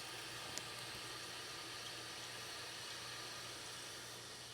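Toilet tank refilling through its fill valve after the water supply is turned back on: a steady hiss of running water.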